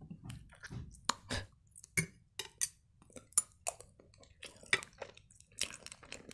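Close-up eating sounds: a mouthful of buckwheat being chewed, with a scatter of irregular mouth clicks and light taps of a metal spoon and fork against the plate.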